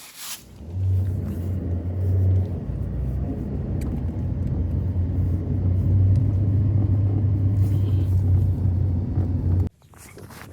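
A motor running with a steady low drone, which cuts off abruptly near the end.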